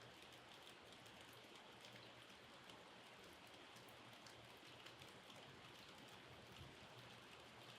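Faint, steady rainfall, with many small individual drops ticking irregularly on a surface.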